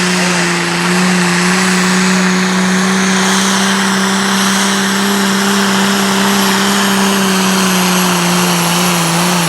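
Competition pulling tractor's engine held at high revs on the line, a loud, steady drone at one constant pitch with heavy exhaust noise over it.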